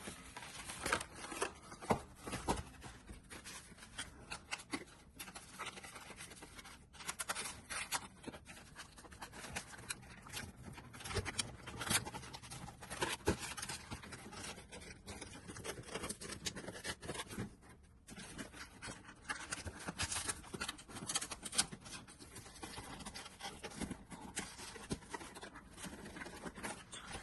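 A small gift toy being handled and assembled by hand: irregular light clicks, scrapes and rustles of its parts being fitted together.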